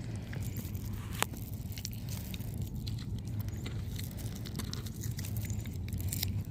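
Irregular crunching and scattered clicks, like footsteps on a dirt-and-gravel trail, over a steady low hum.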